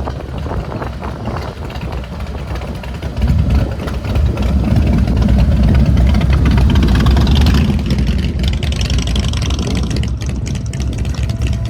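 Car engine running with a deep, steady rumble that grows louder about three seconds in.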